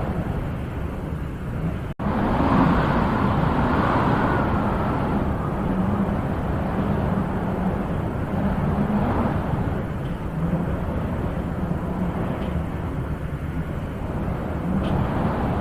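Wind blowing in gusts, swelling and easing every few seconds, with a momentary cut in the sound about two seconds in.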